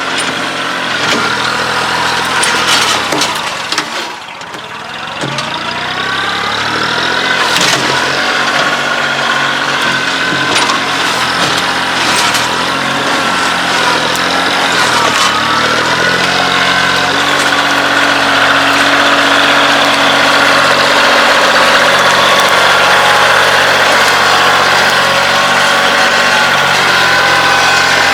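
Kioti CK2610 compact tractor's three-cylinder diesel engine running while it works, dipping in pitch about four seconds in and then picking up speed again, with a few sharp knocks in the first half.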